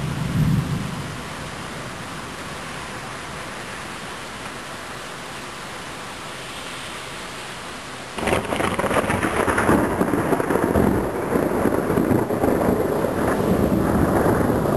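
Thunderstorm: steady rain hiss with a low rumble of thunder fading away at the start. About eight seconds in comes a sudden, much louder crash of thunder that keeps rumbling.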